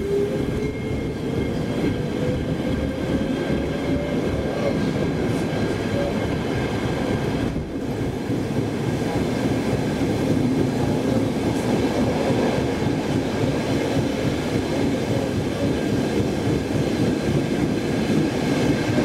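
Saltsjöbanan C10 electric commuter train running, heard from inside the passenger car: a steady rumble of wheels on track. A motor whine rises in pitch and fades out about four seconds in as the train gathers speed past the platform.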